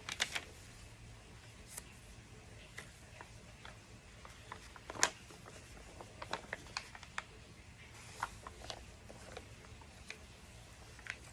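Scattered light clicks and rustles, as of small objects being handled, over a faint steady low hum; the sharpest click comes about halfway through.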